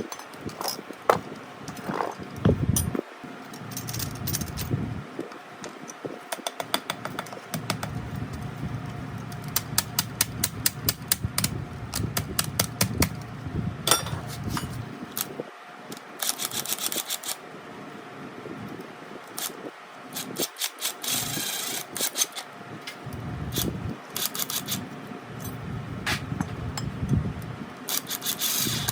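Hand work at a workbench: runs of sharp taps and clicks, several a second, with short bursts of scraping hiss, over a low steady hum.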